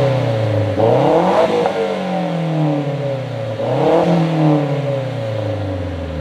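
Car engine revved twice: each time the revs climb quickly, then die away slowly.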